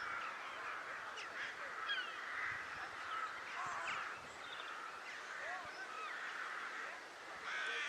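A flock of crows cawing in a harsh, overlapping chorus, with many short calls one after another: the birds are agitated and mobbing an intruder.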